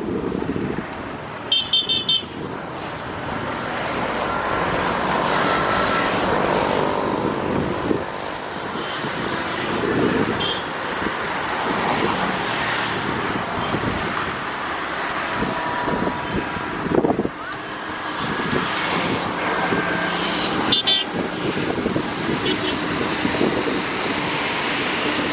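Loaded goods train hauled by a WAG-9 electric locomotive rolling past, a steady rumble of wheels and wagons. Short high toots sound about two seconds in and again about three-quarters of the way through.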